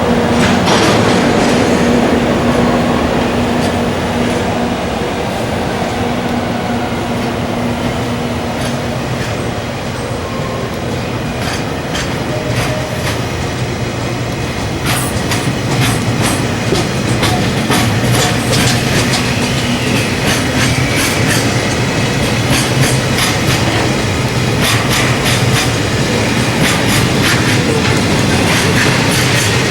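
Freight train rolling past, its wheels clicking over rail joints over a low rumble. A steady hum at the start fades within the first several seconds, and the wheel clicks come thick and fast through the second half.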